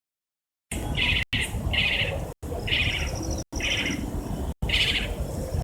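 Spotted owlet calling: a series of short, harsh chattering calls, one about every second, starting about a second in. A thin, high, steady tone runs behind them over a low background rumble.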